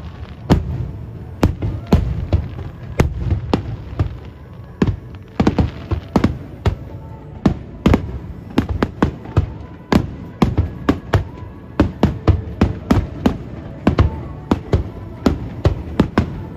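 Fireworks shells bursting in quick succession: sharp bangs a few times a second over a continuous low rumble of echoing booms, coming faster near the end.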